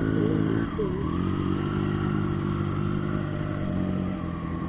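Motorcycle engine running steadily. Its pitch dips briefly about a second in, then holds.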